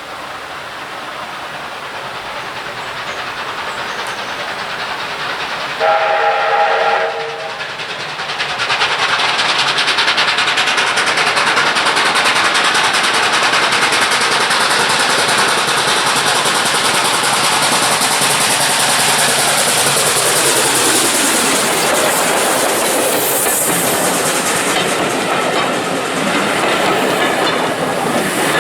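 A steam train getting louder as it approaches, its locomotive's whistle sounding once for about a second some six seconds in, then the loud steady rush of the train going past.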